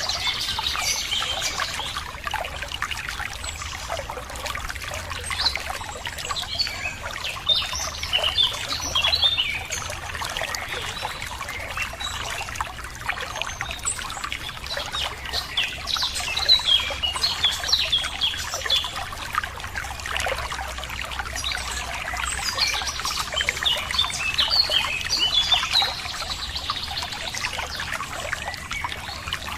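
Running water trickling and pouring steadily, with small birds chirping in bursts of quick high calls, thickest about a third of the way in, again past halfway and toward the end.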